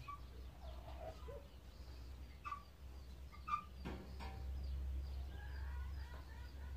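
Faint, scattered short bird calls and chirps over a steady low hum.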